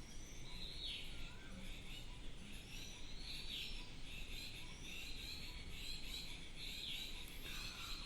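Faint background bird chirping, short falling calls repeated every second or so over a low steady hiss.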